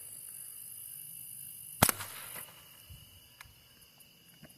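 A single shot from a Savage Model 64 semi-automatic .22 rifle firing a CCI Quiet round, one sharp crack a little under two seconds in. A steady high insect buzz runs behind it and drops away soon after the shot.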